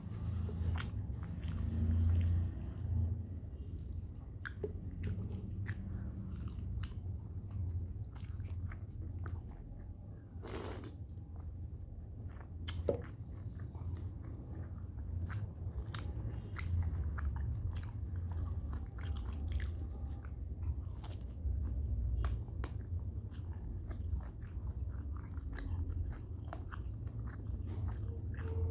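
A person chewing and eating mouthfuls of rice and chicken, with many small mouth clicks over a continuous low chewing rhythm. There is one brief hiss-like sound about ten seconds in.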